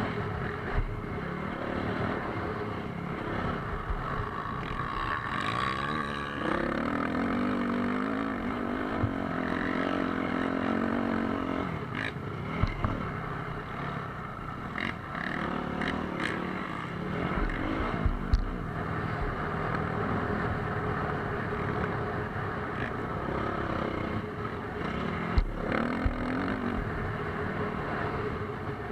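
Motocross dirt bike engine revving up and down as it rides, its pitch rising and falling, with a few sharp knocks and low thumps along the way.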